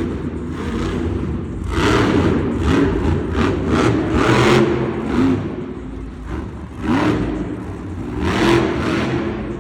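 Monster truck's supercharged V8 revving hard in repeated surges, its pitch rising and falling, with a clear upward sweep near the end.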